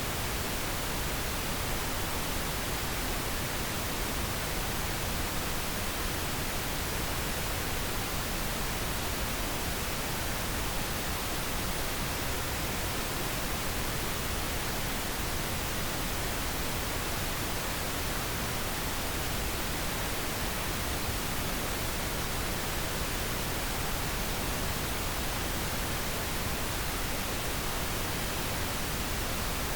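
Steady pink noise: a continuous, even hiss with no change in level, played as a sleep aid.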